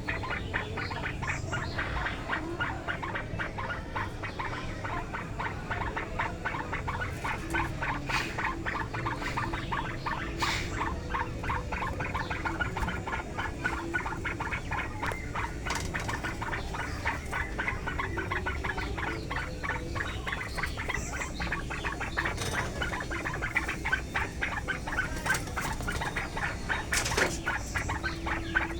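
Roll's hill partridges in an aviary, with a continuous run of rapid, soft ticking sounds.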